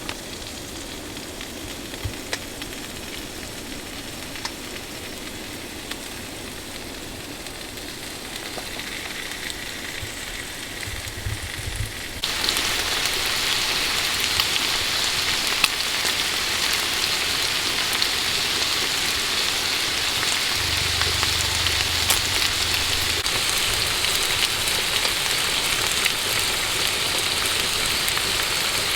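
Food frying in a pan on a wood stove: a steady sizzle with small pops, quiet at first, then suddenly much louder about twelve seconds in.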